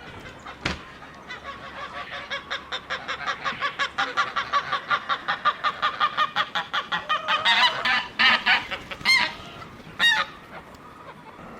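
Domestic poultry calling: a fast run of short, repeated calls at about six a second that builds in loudness, then a few louder, longer calls near the end. A single knock comes just under a second in.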